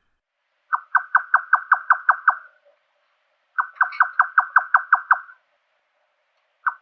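A nightjar calling: bouts of rapid, evenly repeated knocking "chuk" notes, about five a second. Each bout lasts about a second and a half, with pauses of about a second between them, and a third bout begins near the end.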